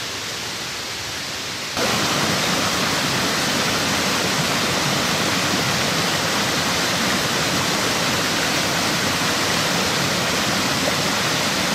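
Steady rushing of water, as from a stream or waterfall, which jumps louder about two seconds in and then holds steady.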